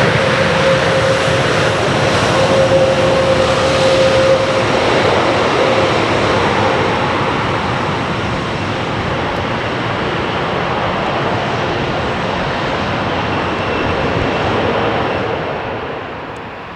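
Jet engine noise of a landing Airbus A321neo, a loud steady rush with a steady whine in the first few seconds, gradually dying away and falling off near the end.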